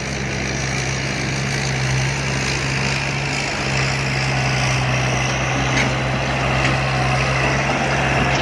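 Heavy diesel engine running steadily nearby, a deep even hum with a rougher noise above it, a little louder after the first couple of seconds.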